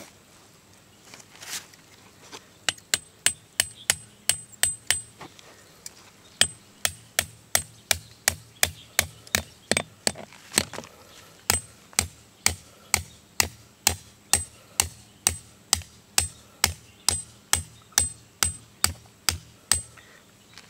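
Hammer driving a metal tent stake into the ground, a long series of steady blows, each with a short metallic ring. They come about three a second, pause for about a second and a half, then carry on at a slightly slower pace.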